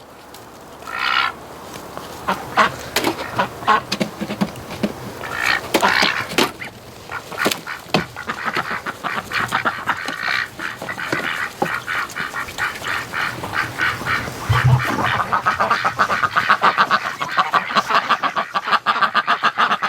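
A flock of domestic ducks quacking, with geese honking among them. The calls come scattered at first, then become a rapid, continuous chatter in the last five seconds.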